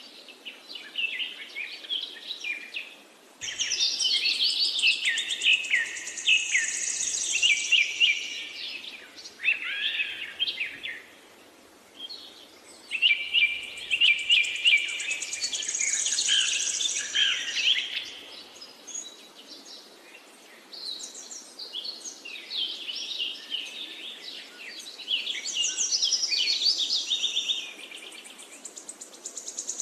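Birds singing: a dense run of quick chirps and trills in phrases with short lulls between them, over a faint steady hiss.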